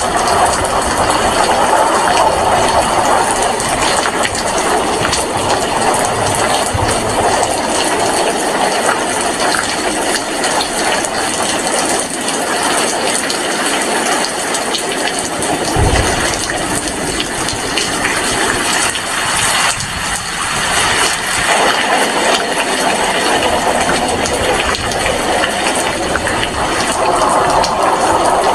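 Steady heavy rain falling, an even hiss with a brief low thump about halfway through.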